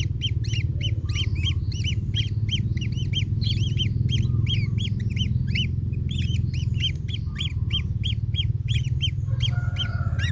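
Kingfisher chicks calling in the nest: a rapid run of short, repeated high calls, about four a second, over a steady low hum.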